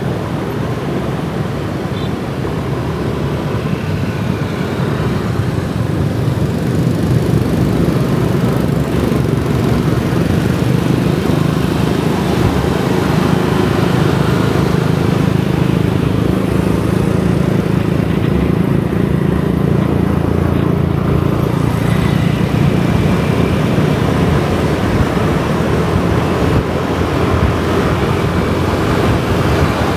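Kawasaki ZX-4RR inline-four sport motorcycle engine running at steady revs while riding through city traffic, growing a little louder in the first several seconds, with the hiss of street traffic around it.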